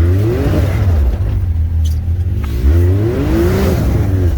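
Side-by-side UTV engine revved hard twice, its pitch rising and then falling each time, as the machine tries to power up over ice.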